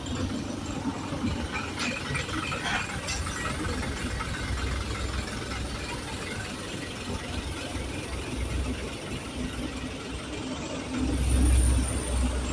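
A city bus engine running with a low rumble that swells louder near the end as the bus comes close, with a few light clicks early on.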